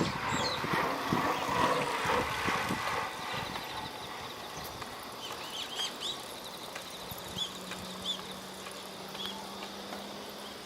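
Riverside outdoor ambience: a steady high-pitched trill of insects runs throughout, with a few short bird chirps in the middle. A low steady hum comes in during the second half.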